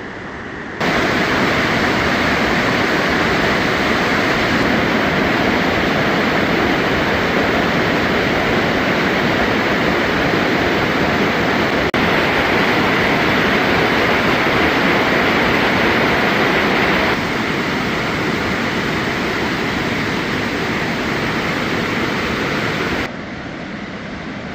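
Steady roar of a waterfall, a loud even rush of falling water, with abrupt changes in level at several cuts between clips.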